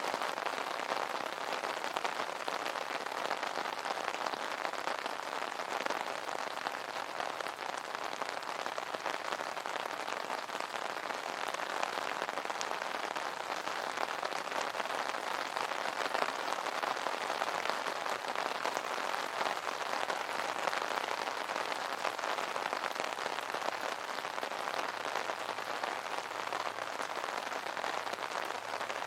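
Steady rain pattering on an umbrella canopy, a dense, even patter of many small drop hits.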